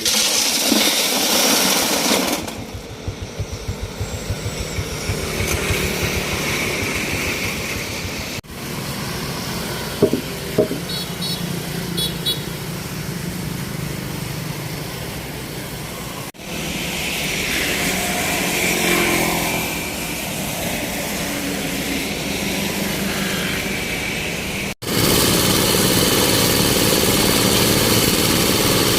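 Engine of an excavator running as it scoops railway ballast stone, heard over several spliced clips, with two sharp knocks about ten seconds in.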